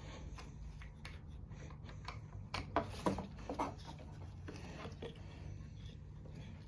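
A few sharp clicks and light knocks of small parts and tools being handled, bunched about two and a half to four seconds in, over a steady low hum.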